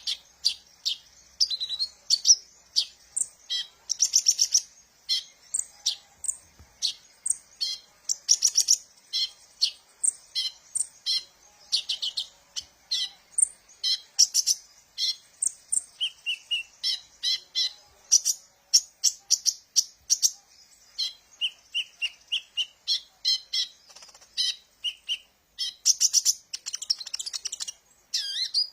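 A sunbird of the kind Indonesian keepers call kolibri ninja, calling and singing in rapid series of short, high, sharp chirps. Here and there it gives short runs of slightly lower notes.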